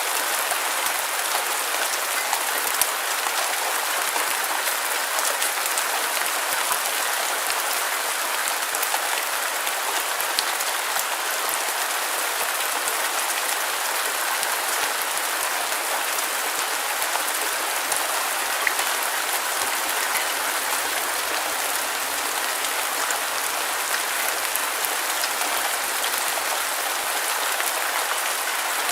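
Steady rain falling, an even hiss with many small drop ticks and no low rumble.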